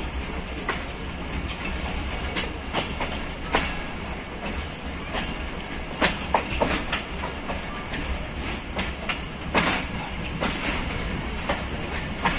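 Pakistan Railways passenger coach rolling along the track, heard from its open doorway: a steady rumble of wheels on rail broken by irregular sharp clacks as the wheels cross rail joints, the loudest about six seconds and nine and a half seconds in.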